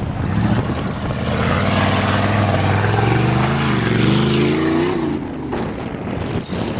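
1988 Chevrolet pickup truck's engine revving under load on a hill climb. Its pitch rises and wavers, and it drops away about five seconds in.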